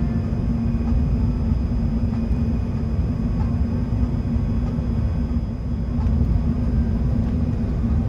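Steady low cabin rumble inside an Airbus A380 in flight, from its engines and the airflow, with a constant hum running through it.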